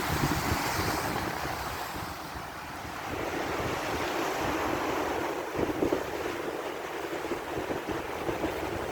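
Wind gusting over the microphone, a fluttering low rumble over a steady rushing hiss.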